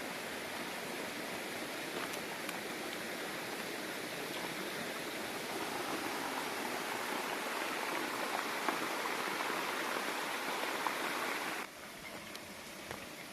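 Flowing stream water making a steady rushing sound. It cuts off abruptly about twelve seconds in, leaving a quieter background with a few faint clicks.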